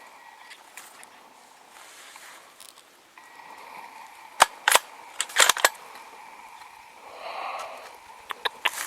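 A quick series of about six sharp clicks and knocks around the middle, over a faint steady outdoor background.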